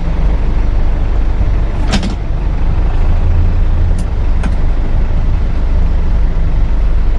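Vehicle running, heard from inside the cab as a loud, steady low rumble, with a few short clicks about two and four seconds in.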